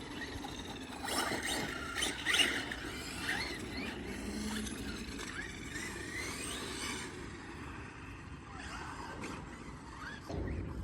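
Electric motor of a Losi Promoto-MX radio-controlled motorcycle whining in short rising bursts as it accelerates several times, over a steady hiss.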